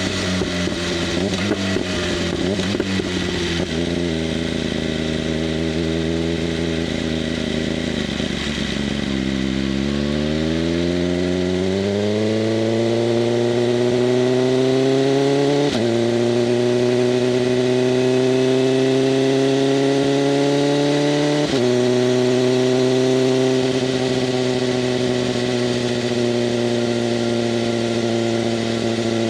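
BMW M1000RR's inline-four through an SC-Project CRT exhaust with its valves open. Revs are low and sagging at first with rough crackling, then climb steadily as the bike accelerates. It shifts up twice, about halfway and two-thirds in, then holds a steady cruise.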